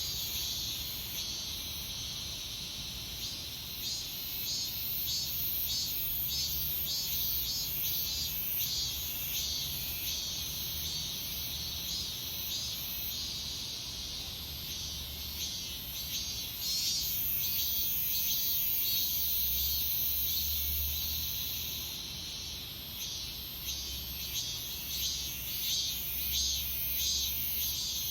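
Cicadas singing in late summer: a high-pitched chorus of rapid, repeated pulses, turning into a steadier high buzz for a few seconds in the middle. A faint low rumble runs underneath.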